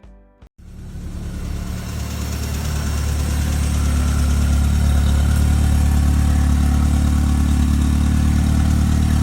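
A car engine running steadily, fading in about half a second in and settling at an even, loud level.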